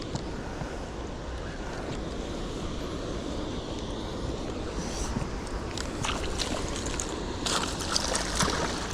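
Steady rushing of wind and flowing river water. From about five seconds in, a scatter of sharp clicks and crackles comes in, densest near the end.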